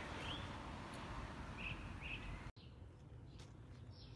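Outdoor background noise with a small bird giving a few short chirps in the first couple of seconds. The sound then cuts off abruptly to a quieter background.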